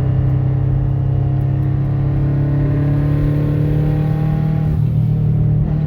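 Car engine running at a steady speed, a constant low drone with a slight change in pitch near the end.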